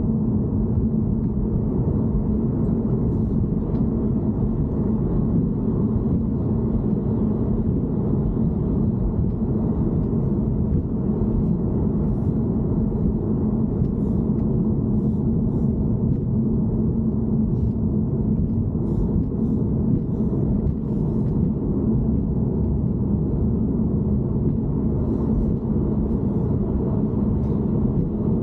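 Steady low rumble from a BMW E90 3 Series, with a constant hum and faint scattered ticks over it; this is the noise recorded as abnormal in the car.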